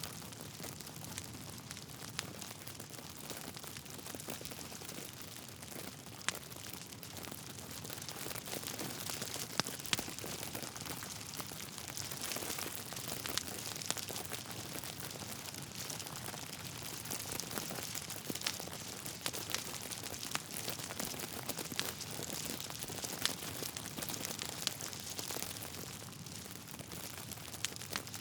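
Wood fire burning in a fireplace: a steady crackle over a soft hiss, with sharp pops from the logs every few seconds.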